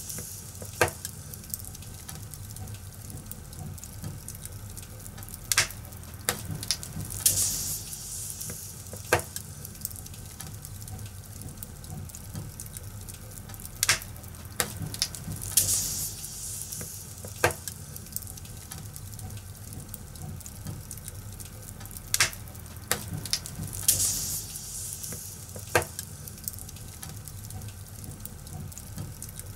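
Fire crackling: sharp pops every second or two over a steady low rumble and hiss, with a few brief flurries of hissing crackle.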